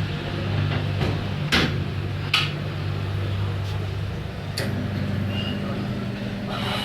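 Steady electric-motor hum of tyre-shop machinery, its pitch shifting about four and a half seconds in, with three short sharp sounds over it.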